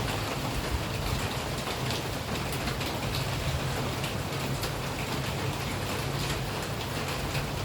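Steady rain falling, with many separate drop hits ticking through the hiss and a low steady hum underneath.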